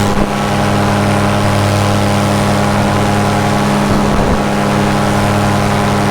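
Paramotor engine and propeller running steadily at constant power, a loud even drone.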